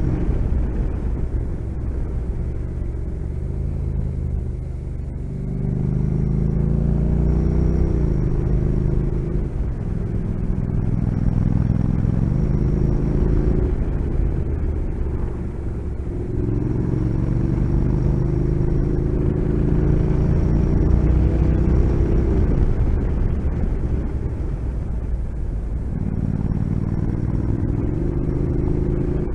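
Motorcycle engine under way, its revs climbing through several stretches of acceleration and dropping back in between, over a steady low rumble of wind and road.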